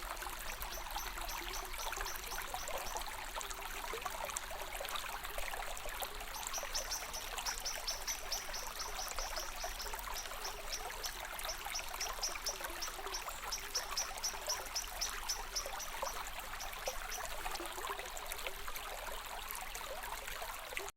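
Running water trickling and bubbling steadily, as in a small stream. From about six seconds in until near the end, quick high chirps repeat several times a second above it.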